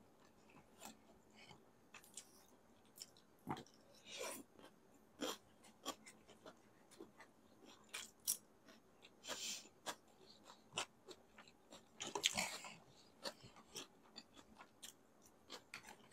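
Close-miked chewing of pancit canton noodles: scattered wet mouth clicks and a few longer noisy bursts of eating sounds.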